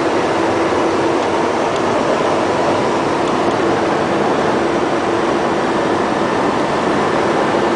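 Steady road and engine noise inside the cab of a moving truck, with a faint constant hum running under it.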